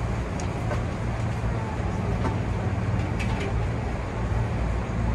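Hankyu 8000 series electric train standing at a station platform: a steady low hum from the train's equipment, with a few faint short clicks.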